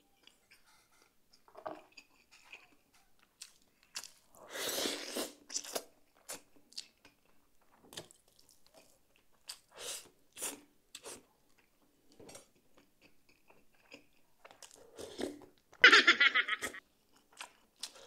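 Close-up eating sounds: chewing and biting the meat and gristle off a large boiled beef bone, with many short wet clicks and smacks. Two longer, louder wet bursts come about four seconds in and again near the end.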